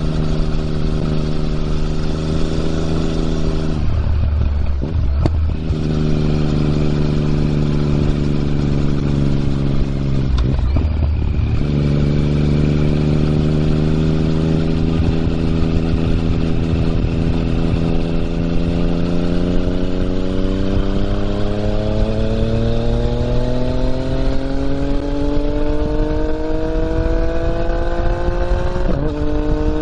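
Yamaha MT-09's three-cylinder engine through an Akrapovič exhaust, heard while riding. The engine note holds steady and breaks off briefly twice as the throttle is eased, then climbs slowly in pitch for about fifteen seconds as the bike accelerates, and drops sharply near the end.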